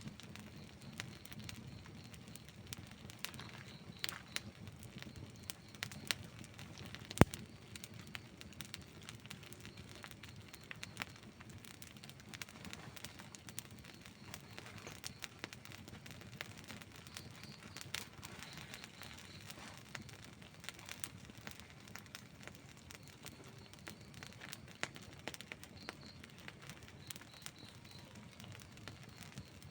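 Outdoor wood campfire burning, crackling and popping irregularly, with one sharp, much louder pop about seven seconds in.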